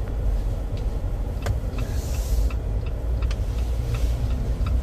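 A four-wheel-drive Jeep creeping through deep snow at walking pace, heard from inside the cabin: a steady low engine and road rumble, with a run of regular light ticks about three times a second in the second half.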